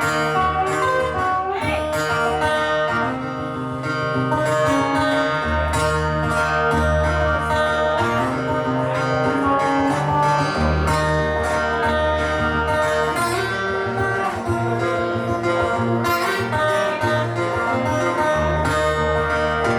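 Live band playing an instrumental blues passage: guitar over a bass line that changes note every second or so, with no singing.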